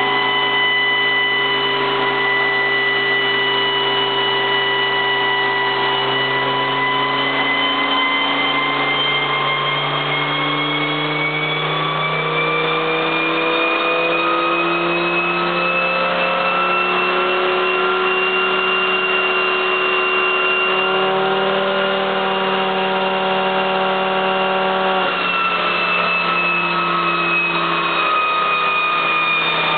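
Turbocharged Volvo station wagon engine running on a chassis dynamometer at light load. It holds steady speeds of roughly 3,400 to 4,100 rpm and steps up and down in pitch several times. Over it runs a high whine that slowly rises and then falls back.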